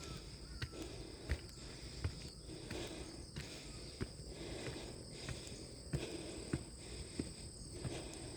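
Footsteps climbing a trail at an even pace, about one and a half steps a second, each a sharp tap, over a steady high-pitched drone of insects. Labored breathing rises and falls with the steps.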